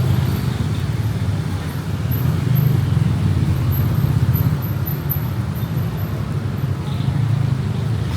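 Steady low rumble of passing street traffic, with no sharp events.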